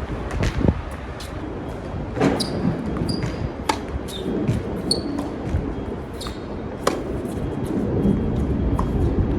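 Tennis balls being struck and bouncing on a hard court: a string of sharp pops at irregular intervals, the clearest a little over two seconds in, near four seconds and near seven seconds. Heavy wind rumble on the microphone runs underneath.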